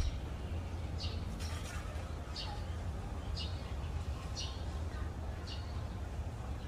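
A bird giving short, high chirps about once a second, over a steady low rumble.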